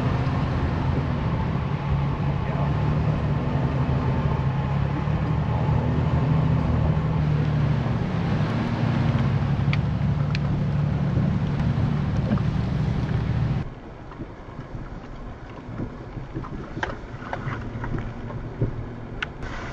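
Vehicle driving, a steady engine hum with road noise. About fourteen seconds in it cuts off suddenly to a much quieter background with a few faint clicks.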